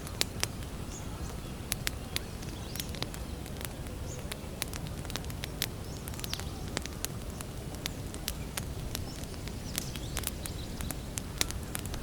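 Wood campfire crackling: sharp, irregular pops and snaps from the burning wood, several a second at times, over a steady low rumble of the fire.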